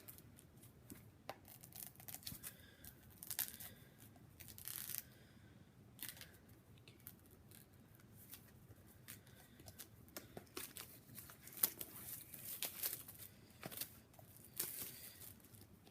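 Packaging on a boxed disc set being torn and crinkled by hand, in short, irregular crackles and scrapes.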